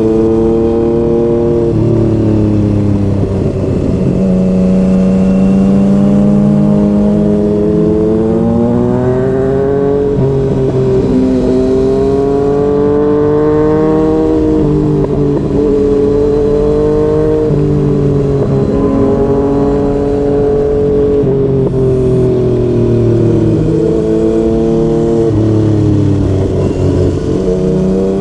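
Yamaha MT-09's three-cylinder engine through a Yoshimura R55 slip-on exhaust, under way. The pitch climbs steadily under throttle and drops back several times as the rider shifts gears or rolls off.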